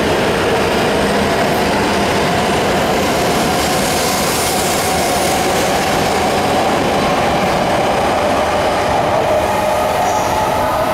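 E7 series Shinkansen train pulling out of the station close by, with a steady rumble of wheels on rail and a whine that rises in pitch as it gathers speed.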